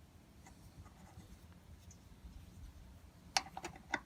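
Small hinge-pin bushings being handled and pushed into a truck door hinge bracket: faint scratchy handling, then a quick run of small sharp clicks near the end as the parts seat.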